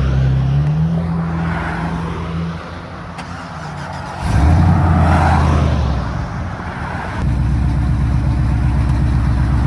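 A vehicle engine running close by, its pitch shifting in the first seconds, then rising sharply in loudness about four seconds in and settling into a steady, heavier running from about seven seconds on.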